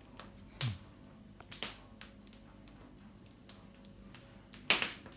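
A few scattered sharp knocks and clicks from things being handled, the loudest near the end, against a quiet background.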